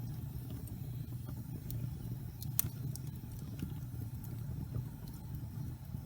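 Wood logs burning in a fireplace: a steady low rumble of the flames with scattered sharp crackles and pops, the loudest about two and a half seconds in.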